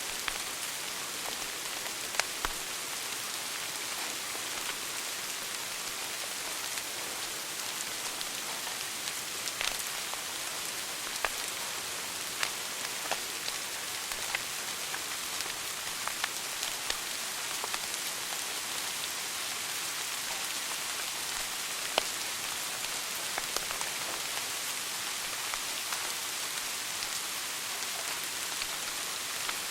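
Wood fire burning in a fireplace: a steady crackling hiss with scattered sharp pops, the loudest about 22 seconds in.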